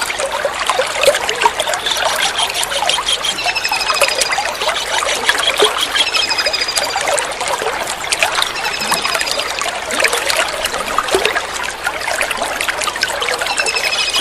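Steady trickling water with a kingfisher's short, high, rapid trilled calls repeating several times, every couple of seconds.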